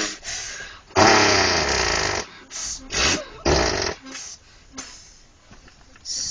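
A boy imitating a heavy truck with his mouth: one long raspy blast of about a second, then several short sputtering bursts, fading to small puffs near the end.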